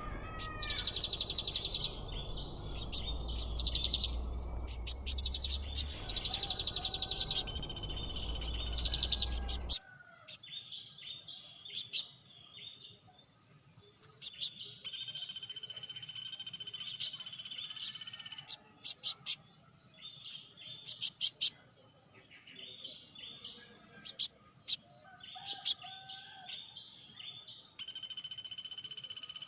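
Small birds chirping in short repeated calls over a steady, high-pitched drone of insects. A low rumble runs under them for the first ten seconds and then stops suddenly.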